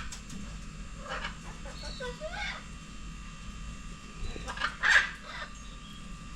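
Birds calling: a few short calls with bending pitch, the loudest about five seconds in.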